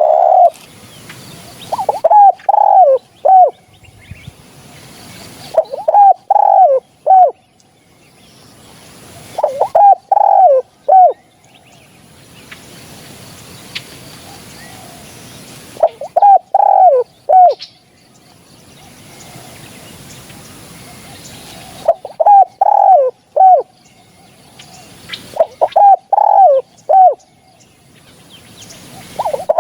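Spotted dove cooing: about six short phrases of three or four low coos each, a few seconds apart at uneven gaps. A recorded call of the kind played as a lure when hunting spotted doves.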